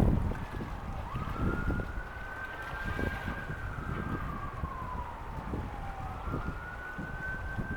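A siren wailing: its pitch rises quickly about a second in, falls slowly over several seconds, then rises again near the end. Under it is a low rumble of wind on the microphone.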